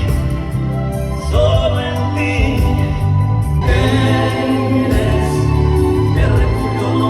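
A sung Spanish-language pop ballad played loud through a Mackie Thump 12A powered loudspeaker and a Mackie Thump 118S 18-inch powered subwoofer, with a heavy, steady bass under the singing.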